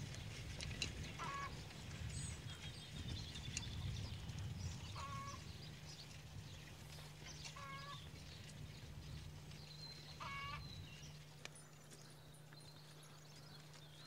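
A bird giving short honking calls four times, a few seconds apart, with fainter birdsong between them.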